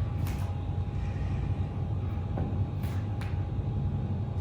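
Steady low rumble of background noise with a faint steady hum, and a few light, faint clicks.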